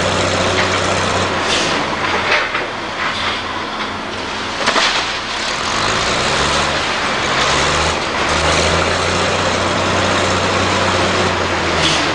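Diesel engine of a heavy demolition machine working, its pitch rising and falling as it labours, with a few sharp cracks and crunches of breaking building debris.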